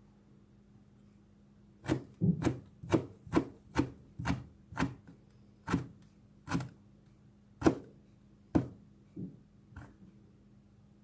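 Knife chopping a carrot on a cutting board: a dozen or so sharp knocks starting about two seconds in, about two a second at first, then slower, the last few fainter.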